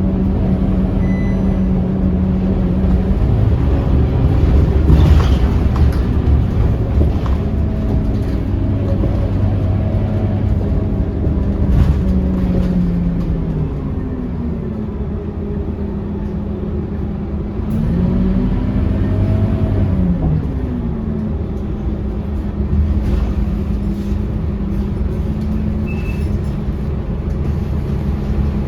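Scania K230UB city bus's diesel engine running under way, its note holding steady for long stretches, then falling and rising again twice, about twelve seconds in and again around nineteen to twenty-one seconds in, as the revs change. A few short knocks sound over it.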